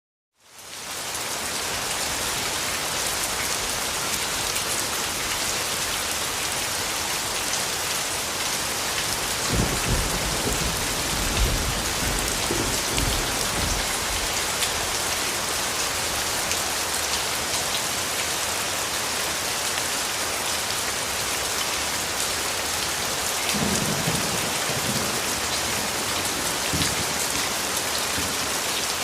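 Steady rain falling, fading in over the first second. Low rolls of distant thunder rumble under it about ten seconds in and again near the end.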